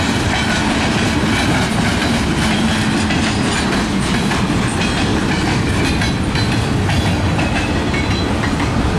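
Freight cars of a long manifest train rolling past close by: a steady rumble of steel wheels on rail, with faint clicks running through it.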